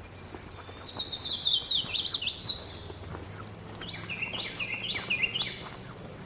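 A songbird singing: a fast run of high chirping notes climbing in pitch about a second in, then a second phrase of short, downward-sliding chirps around four seconds in.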